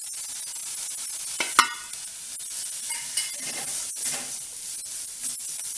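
Onions and spices frying in oil in a steel kadai, a steady sizzle, while a spatula stirs and scrapes the spice powders into them. A sharp knock about one and a half seconds in.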